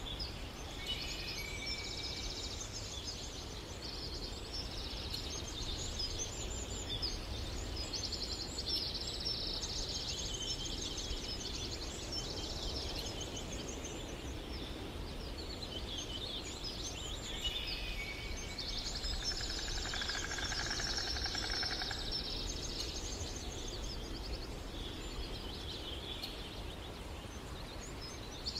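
Birds chirping in many short, fast trills, one after another, over a steady low background rumble.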